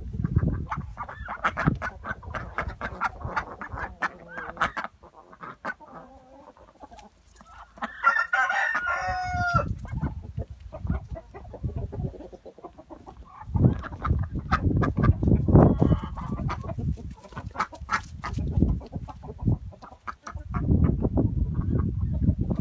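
Domestic chickens clucking, with a rooster crowing once, a long call about eight seconds in. Bursts of low rumble come and go.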